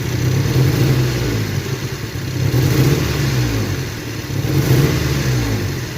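Toyota 4Runner's 2.7-litre four-cylinder engine, which has a misfire, revved in several quick throttle snaps, each rising and falling back toward idle.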